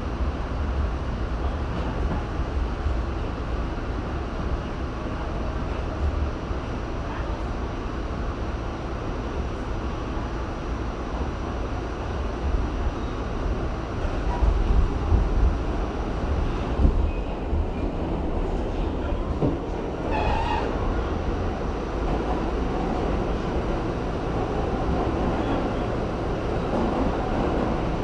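R68 subway train running, a steady rumble with rail clatter. About twenty seconds in there is a brief higher-pitched tone over it.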